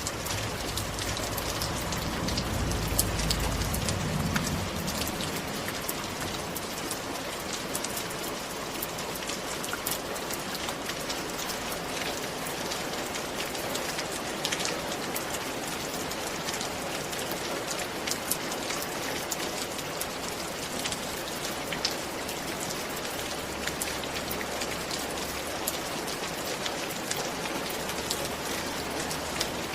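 Steady rain falling, an even hiss with many single drops ticking sharply through it. A brief low rumble rises under it a couple of seconds in and fades by about the fifth second.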